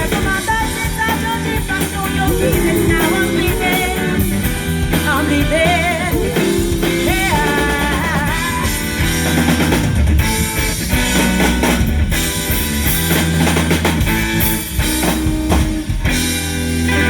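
Live rock band playing, with drums, guitar and singing over a steady beat.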